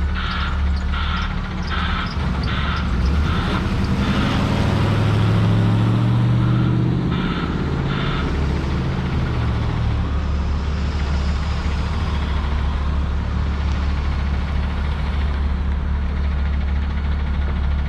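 Semi truck's diesel engine running, its pitch climbing for a few seconds under throttle, then easing back to a steady hum. Through the first few seconds a reversing alarm beeps about twice a second, and it sounds twice more about halfway through.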